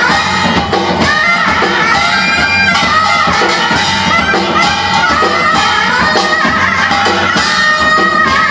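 Korean fusion traditional music ensemble playing an instrumental passage: a wind melody over a steady repeating accompaniment.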